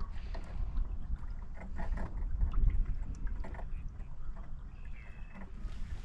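Canoe paddling: paddle strokes in the water with small splashes and drips, over a steady low rumble of wind on the microphone.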